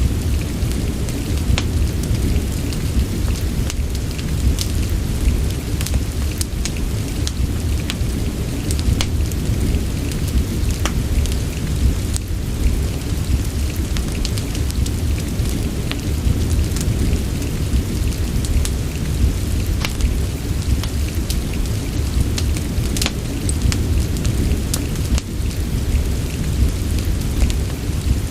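Steady rain with a deep, even rumble underneath, and scattered sharp crackles and pops from a wood fire in a fireplace.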